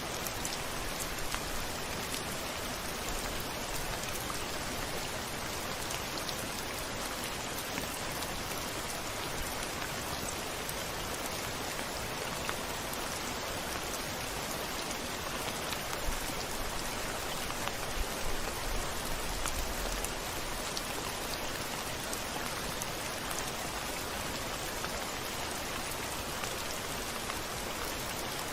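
Steady rain pattering on a window, with scattered individual drop taps and a brief low rumble swelling about two-thirds of the way through.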